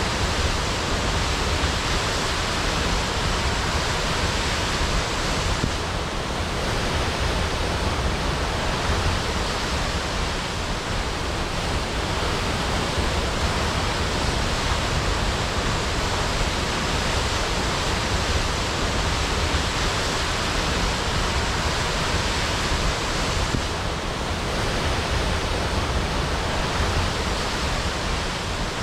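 Waterfall crashing: a loud, steady rush of falling water with no breaks.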